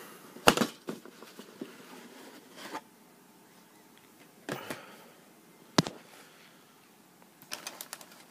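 Cardboard model-kit box being opened and its contents handled: scattered knocks and scrapes of the lid and parts, the loudest about half a second in, with a quick run of small clicks near the end.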